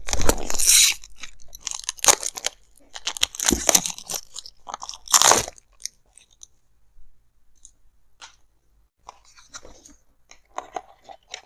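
Headphone packaging being handled close to the microphone: several loud, sharp bursts of box and wrapping noise in the first five seconds, then a pause, then faint, busy handling noises near the end.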